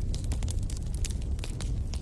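Wood campfire crackling, with frequent sharp pops over a steady low rumble.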